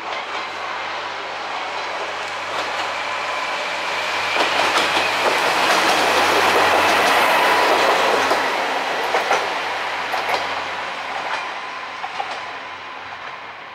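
KiHa 2000-series single diesel railcar (KiHa 2005) running past, its wheels clicking over the rail joints. It grows louder as it approaches, is loudest about halfway through as it passes close by, then fades as it moves away.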